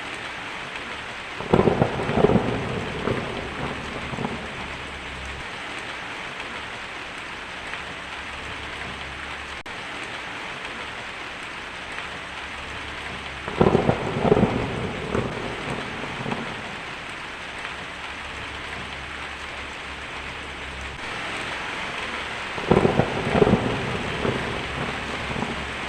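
Steady heavy rain hissing, with three claps of thunder that each rumble away over a few seconds: shortly after the start, about halfway through, and a few seconds before the end.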